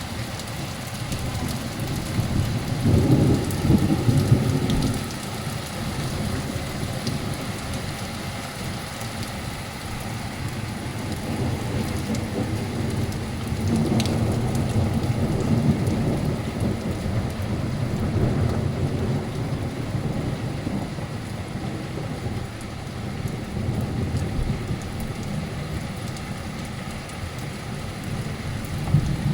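Torrential rain and hail pelting down, with rolls of thunder rumbling low underneath. The thunder swells loudest about three to five seconds in and again from about twelve to twenty seconds in.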